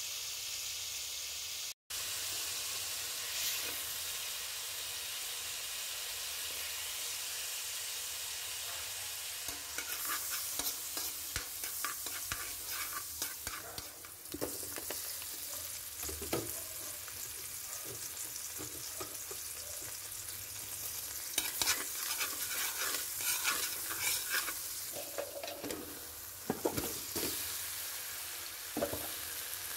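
Butter sizzling steadily in a hot metal pan, with louder crackling spells as chopped garlic and then whole shrimp fry in it, and a few knocks from stirring.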